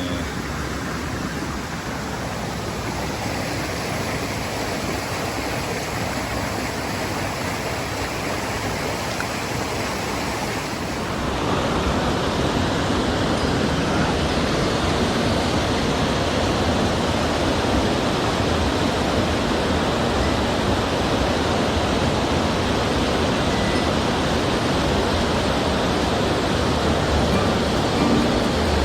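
Rushing water of a mountain stream: a steady noise that steps up louder about eleven seconds in.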